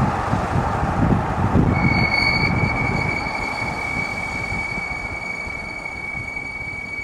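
BMW X7 brakes squealing under braking: a steady high-pitched squeal starts about two seconds in and holds, over road and wind noise through an open window. It is the loud brake noise the owner complains of, on pads close to their replacement point.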